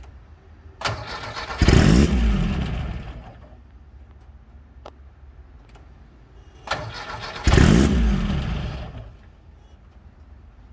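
Supercharged 2110cc VW Type 1 air-cooled flat-four being started for the first time. Twice the starter cranks it briefly, the engine fires with a loud burst, revs and then runs down and dies over about two seconds.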